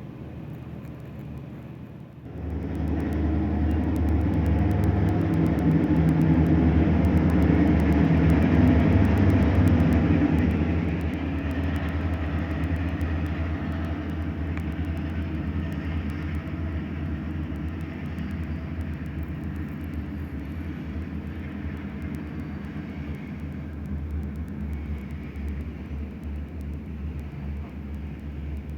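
Diesel freight locomotives passing, a deep engine drone with steady low tones that comes in abruptly about two seconds in and is loudest for the next several seconds. It then eases to a steadier rolling rumble of the train going by.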